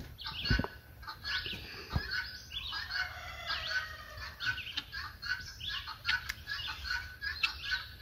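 Birds calling over and over in quick short chirps and clucks, with a couple of soft knocks in the first two seconds.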